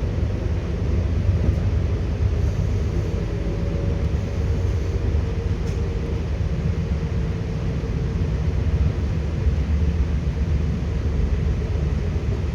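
ЭГ2Тв (Ivolga) electric multiple unit running at speed, heard from inside the passenger car: a steady low rumble from the wheels and running gear, with a faint steady tone above it.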